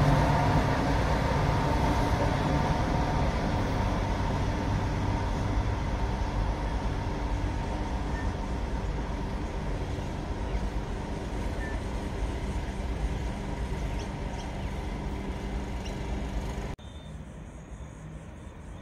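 Diesel locomotive and a long string of loaded coal hopper wagons rumbling along the track, fading steadily as the train draws away. Near the end the rumble cuts off suddenly to a much quieter outdoor background.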